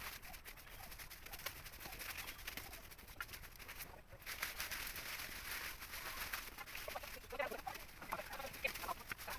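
Birds calling in short, repeated notes, most thickly in a cluster late on, over a steady hiss.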